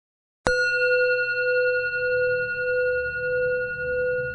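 A bell struck once about half a second in and left ringing on, its clear tone wavering slowly, with a low drone coming in underneath.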